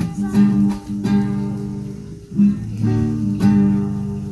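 Acoustic guitar strumming chords in a steady rhythm, playing the introduction to a hymn before the singing comes in.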